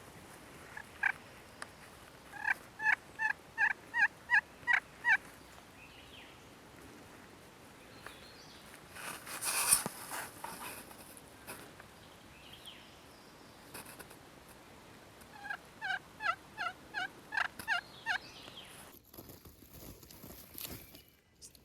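Turkey yelping: two runs of about eight or nine evenly spaced notes, one a few seconds in and one near the end, with a single note just before the first run. A brief rushing noise about halfway through is the loudest moment.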